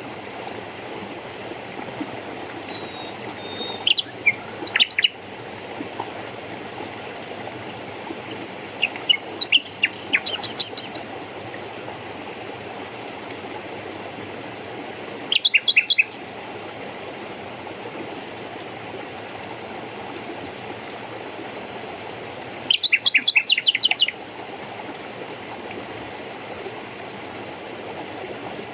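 Songbird calls over a steady rush of running water. The birds sing in about five short, rapid bursts of high, quick notes, some opening with a thin falling whistle.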